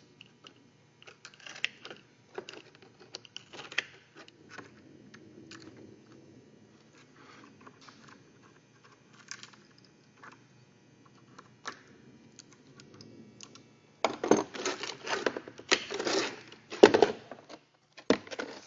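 Sheet-metal flashing being handled and fitted: scattered light clicks and taps of metal, then louder crinkling and rattling in the last few seconds.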